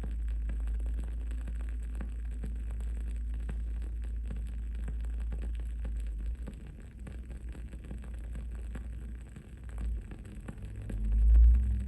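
Wood-wick candle crackling with frequent small pops, over a steady low hum. About halfway through the hum breaks up, and a low rumble swells to the loudest point near the end.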